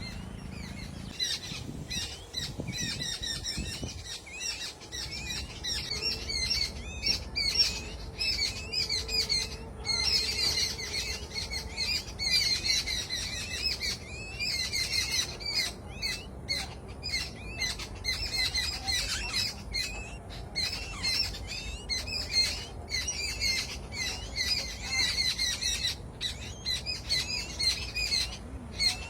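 Small birds chirping and squawking in rapid, overlapping high calls without pause, busier after the first few seconds.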